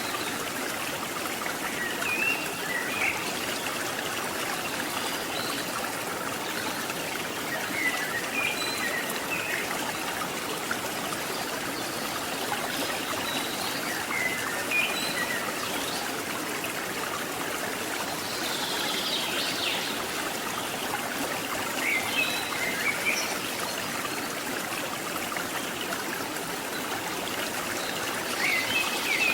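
Steady rushing of a forest river's flowing water, with a few short high chirps now and then.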